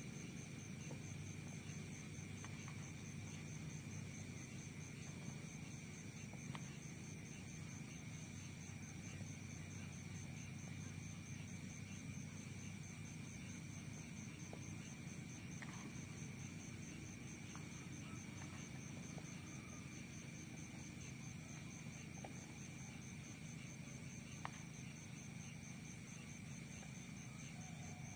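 Insects, crickets among them, trilling steadily in high, rapidly pulsing tones over a faint low rumble, with a few faint ticks.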